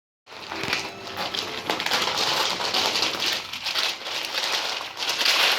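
French bulldog puppies scrabbling and rustling through their bedding: a steady rustle with many small clicks.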